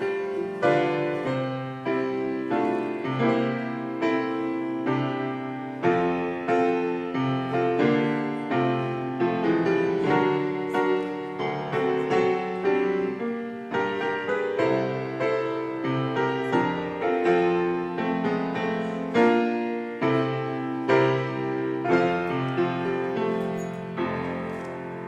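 Solo piano playing a postlude at the close of the worship service: a flowing run of chords and melody notes, growing quieter near the end.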